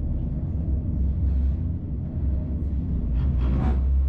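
Steady low rumble of a moving diesel railcar unit, a Czech Class 811 railcar pulling its trailer, heard from inside the trailer car.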